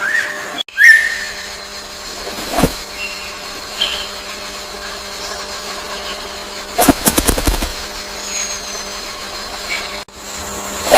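Short bird chirps and a brief high whistle over a steady low hum, with a single sharp click and, about seven seconds in, a quick rattle of clicks.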